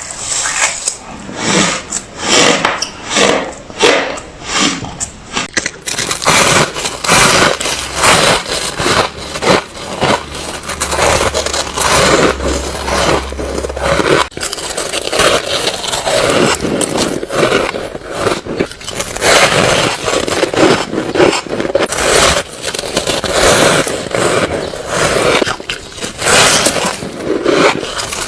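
Ice being bitten and chewed close to the microphone, a run of crisp crunches. The crunches come as separate bites about twice a second at first, then become dense, almost continuous crunching after about six seconds.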